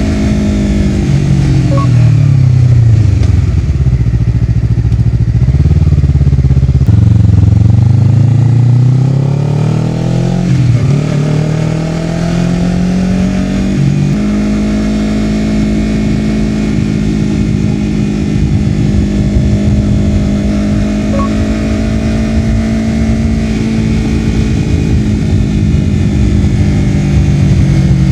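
Honda CBR250RR's parallel-twin engine through a Yoshimura R-11 slip-on exhaust, ridden on the road: revs fall over the first few seconds, then climb again under acceleration with a quick gear change about ten seconds in, and from about halfway the engine holds steady revs.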